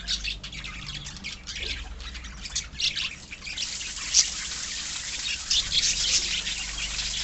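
A colony of pet lovebirds and budgerigars chattering: many short, high calls overlapping, thickening into a denser continuous chorus about halfway through.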